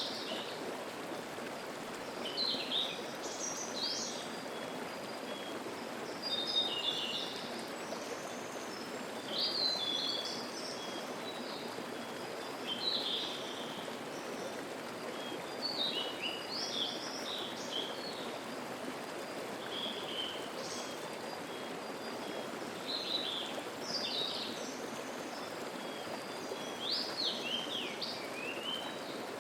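Mountain stream flowing with a steady rushing murmur, while a songbird sings short, high, quick phrases over it about every two to three seconds.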